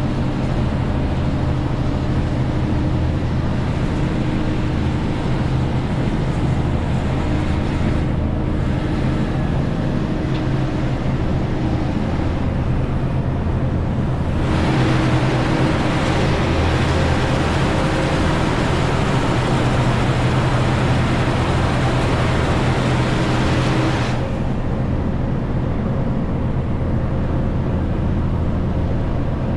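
Renault T520 truck's six-cylinder diesel engine running steadily while hauling about 40 tonnes, with a constant low engine hum under tyre and road noise. About halfway through, a louder rush of noise swells for roughly ten seconds, then drops back.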